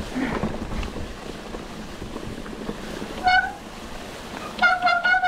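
Wind noise buffeting the microphone. A short high-pitched call comes about three seconds in, and a longer, steadily held call starts near the end.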